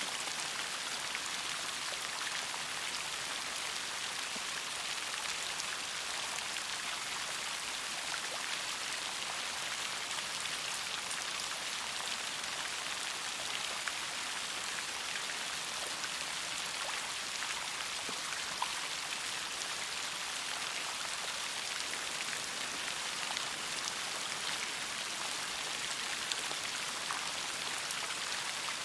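Steady rain falling, an even hiss with many scattered raindrop ticks.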